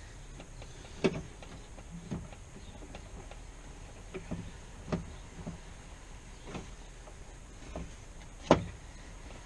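Scattered sharp clicks and knocks of tools and metal parts being worked inside a car door, the loudest about a second in and again near the end.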